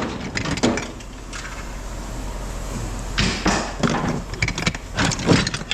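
Scrap metal parts clanking as they are tossed onto a pile, a string of separate clangs with a few close together in the second half.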